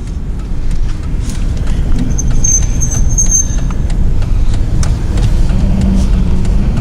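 Steady low road and engine rumble of a pickup truck driving, heard from inside the cab. A faint high squeak sounds briefly about two seconds in.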